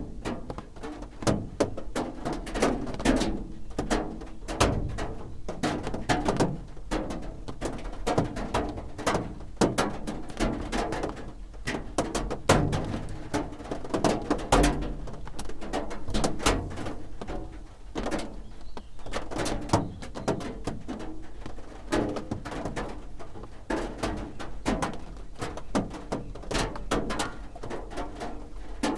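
Rain drops drumming on a roof: a dense, irregular patter of dull taps and knocks at a steady level.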